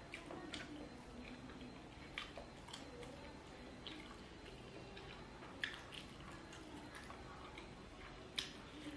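Wet mouth clicks and smacks of someone chewing fried egg dipped in soy sauce, soft and scattered, with sharper clicks a little past halfway and near the end.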